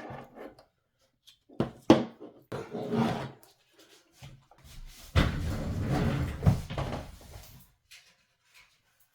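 Hands handling PC parts and packaging: a few sharp knocks and clicks, then a couple of seconds of denser, noisier handling about halfway through.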